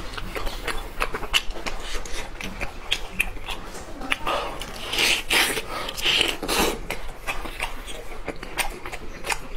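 Close-miked eating: biting and tearing braised lamb shank meat off the bone and chewing it, with many small wet clicks and smacks of the mouth, busiest about halfway through.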